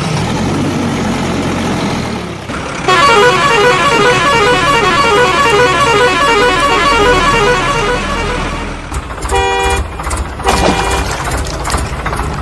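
A vehicle's musical horn playing a fast repeating tune for about six seconds, followed by two short horn honks; a steady engine-like rumble is under the opening seconds.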